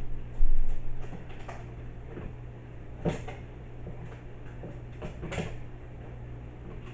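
Rod holder being zip-tied onto a plastic milk crate: a couple of knocks near the start, then a few scraping strokes of the zip ties being pulled through and tightened, over a steady low hum.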